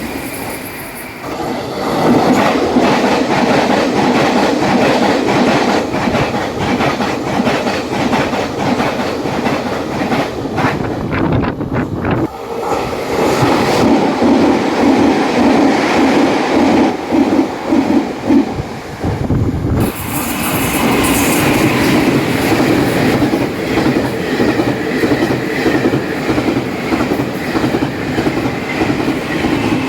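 Taiwan Railways trains passing at high speed, their wheels clattering rhythmically over the fishplate rail joints under a heavy rumble. Three passes follow one another, the sound changing abruptly about 12 and 20 seconds in.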